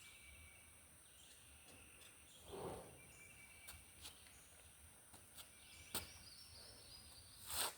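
Near silence: faint outdoor background with a few short clicks, a soft rustle about two and a half seconds in, and a sharper knock near the end.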